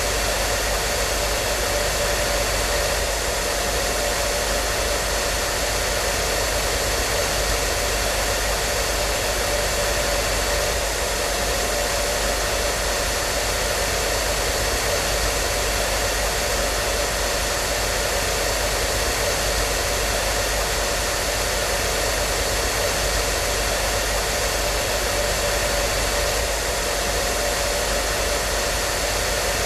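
Hair dryer running continuously, a steady rush of air with a faint motor hum and whine that does not change.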